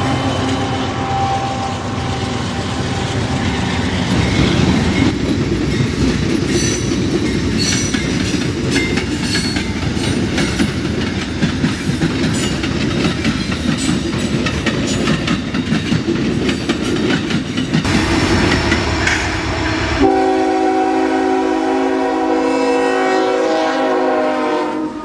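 A train passing close, its rumble mixed with rapid clicking of wheels over rail joints. About 20 seconds in, the rumble cuts off sharply and a locomotive air horn sounds, a steady chord held for about five seconds.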